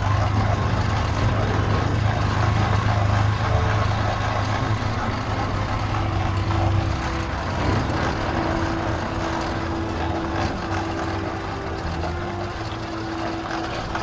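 A vehicle engine running steadily on the move, with a strong low hum that gives way about halfway through to a steady higher note.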